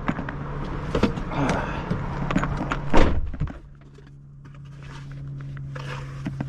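Knocks and clatter of hand tools and faucet parts being handled at an old sink faucet, with one loud thunk about three seconds in. After that the knocking stops and a steady low hum is left, slowly getting louder.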